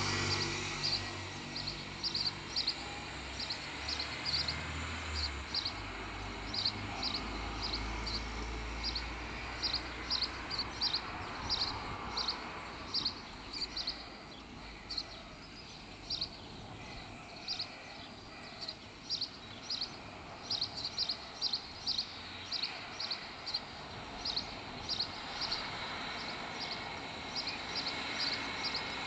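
A small songbird chirping over and over, short high chirps about two a second in runs, over steady outdoor background noise. A low rumble sits under it for roughly the first ten seconds.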